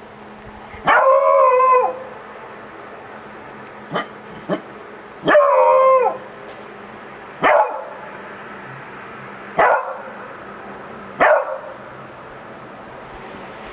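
Beagle baying and barking: two drawn-out, howling barks of about a second each, one near the start and one about five seconds in, with short single barks between and after them.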